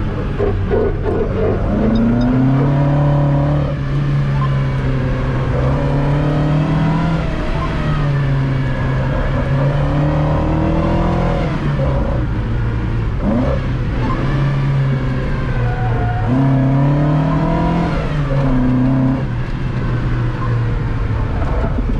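Moskvich-408's four-cylinder engine driven hard from inside the car, its revs climbing and dropping again and again as it accelerates, changes gear and slows for bends.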